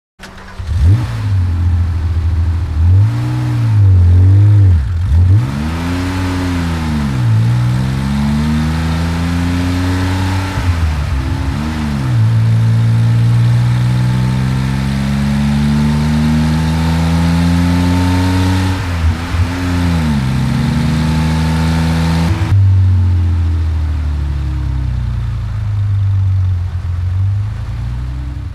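Porsche 911 flat-six boxer engine sound, a recording of the real engine. It starts suddenly, then is blipped through several quick revs. It climbs in one long rev, drops back, and settles to a steady idle near the end.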